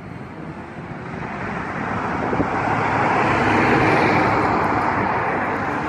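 A road vehicle passing by: road and engine noise swelling to a peak about four seconds in, then fading.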